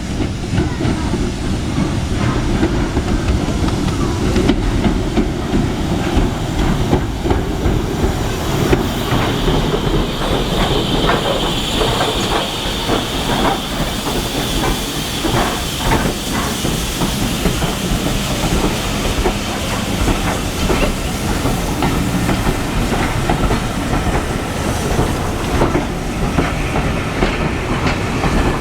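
Train running on the rails with a steady rumble and wheels clicking over rail joints. A high hiss rises over it for about ten seconds in the middle.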